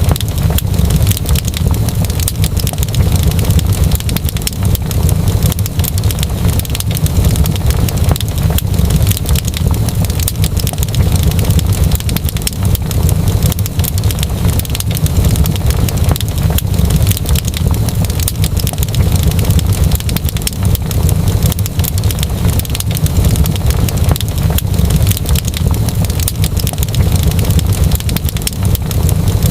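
Wood fire crackling in a fireplace: a continuous scatter of small pops and snaps over a steady low rumble.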